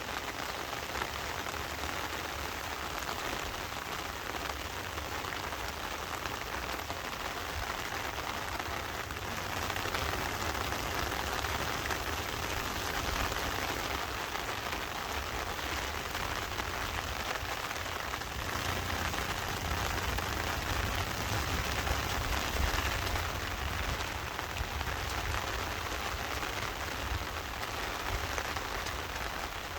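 Heavy monsoon rain falling steadily in a constant dense hiss, with a low rumble underneath.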